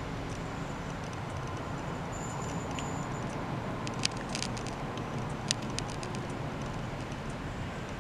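Low, steady rumble of a diesel multiple unit pulling away into the distance down the line, with a few sharp clicks about four and five and a half seconds in.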